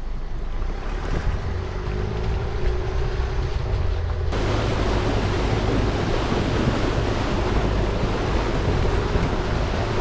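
A 4WD vehicle driving on a wet, flooded track: low engine and road rumble under a steady rushing noise, which turns harsher about four seconds in.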